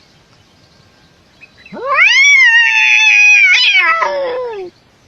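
A cat's single long meow: it rises quickly, holds steady for about three seconds, then falls away and stops.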